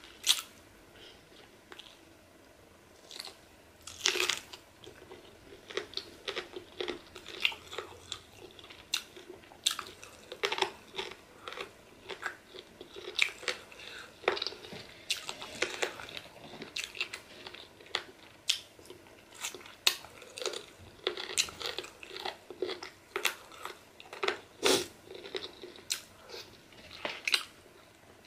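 Close-miked chewing and biting of pork pieces from a pork pepper soup, with many short, irregular mouth clicks and smacks.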